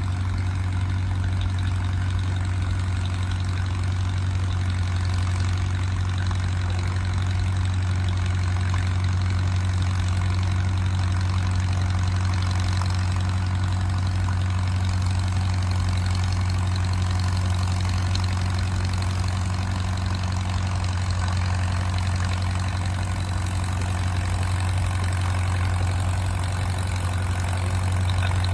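An engine running at a steady, unchanging speed, a deep drone with no revving.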